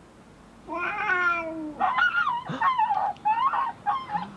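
Cat meowing and yowling: one long cry falling in pitch, then several shorter wavering cries.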